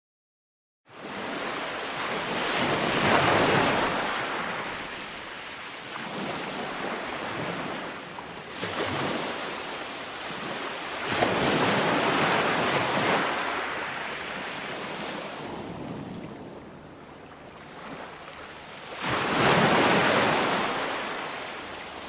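Ocean waves breaking on a shore: the surf swells and recedes in about four surges, with the loudest crash near the end. It starts after about a second of silence.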